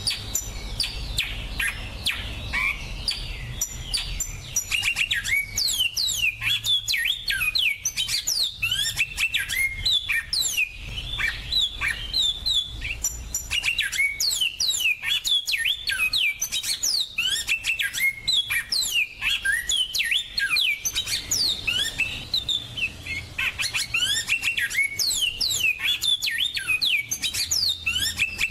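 Finches singing: a dense, continuous song of quick high chirps and fast down-sweeping notes, with only brief gaps.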